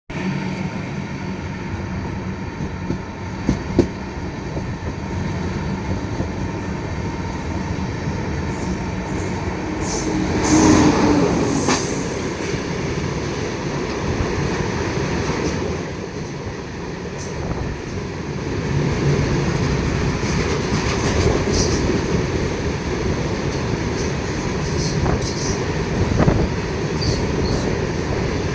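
Goods train passing, its steel wheels rumbling steadily on the rails with scattered clacks. There is a louder stretch about ten seconds in.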